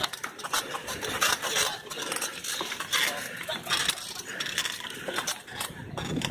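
Bicycle rattling and clattering over a rough dirt trail, with many irregular knocks and scrapes.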